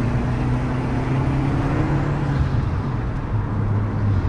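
Audi TT Quattro 225hp's 1.8-litre turbocharged four-cylinder running at a steady cruise, heard from inside the cabin as a low drone over tyre and road noise. The engine note dips slightly about three seconds in.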